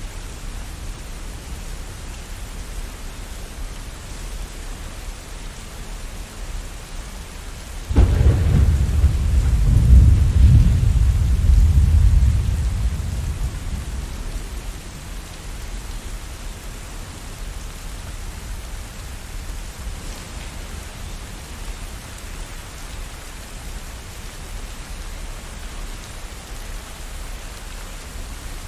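Steady rainfall, with a clap of thunder about a third of the way in: a sudden crack followed by a deep rumble that swells for a few seconds and then slowly fades back into the rain.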